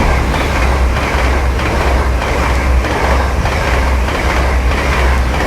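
Train passing through the station close by: a loud, steady rumble and rush of wheels on rails, with repeated clacks over the rail joints.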